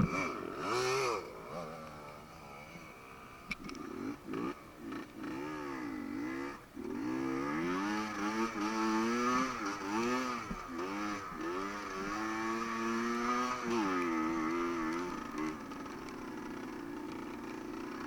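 Off-road motorcycle engine revving again and again, its pitch rising and falling with the throttle, busiest from about six seconds in until it settles near the end. A sharp knock right at the start.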